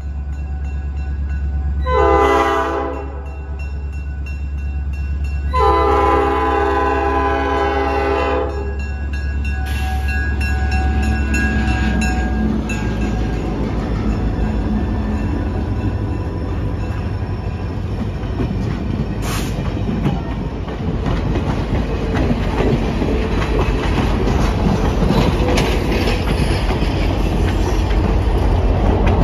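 Diesel locomotive horn sounding a short blast and then a long one at a grade crossing, the end of the crossing warning signal, over the low steady drone of the diesel engine. About twelve seconds in, the locomotive and passenger cars roll past close by with a rising rumble of wheels on rail and clickety-clack.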